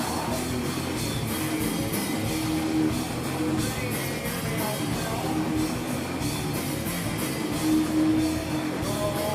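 Live rock band playing loud on electric guitar and drum kit, with held guitar notes over steady drumming in an instrumental stretch.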